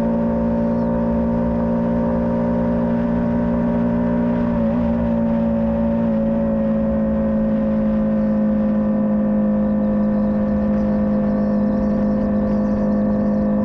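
Small learner motorcycle engine running steadily, holding an even note. About five seconds in the note wavers briefly, then settles at a slightly lower pitch.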